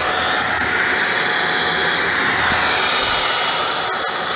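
Holife cordless stick vacuum's brushless motor running steadily, a high whine over a rushing of air.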